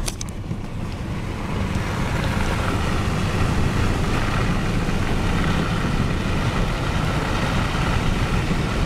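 Steady road noise inside the cab of a four-wheel-drive pickup under way: engine and tyre rumble, growing a little louder over the first couple of seconds.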